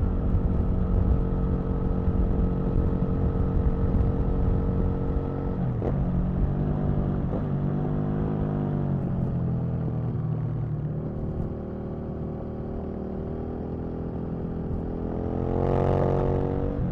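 Aprilia RSV Mille's V-twin engine under way on the road, holding steady revs with two brief breaks in the revs about six and seven seconds in, then running at lower revs before climbing again near the end.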